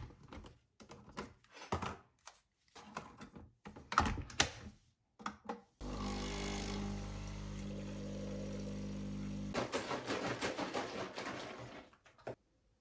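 Scattered clicks and knocks of objects being handled, then a small machine humming steadily for about four seconds before cutting off, followed by more clicks and rustling.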